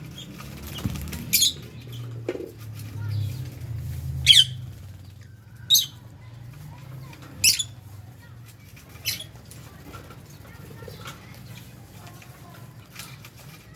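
Lovebirds in an aviary calling: five loud, short, shrill chirps about a second and a half apart, with fainter chirps and rustling between. A low rumble sits under the first few seconds.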